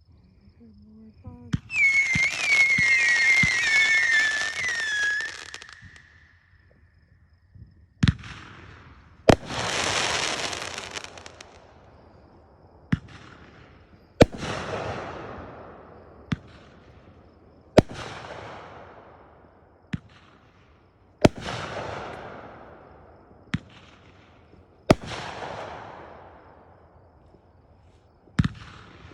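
Consumer fireworks going off: first several short falling whistles over a hiss for about four seconds, then a repeating pattern of a sharp bang followed about a second later by a second bang with a fading sizzle, six times at roughly three-and-a-half-second intervals.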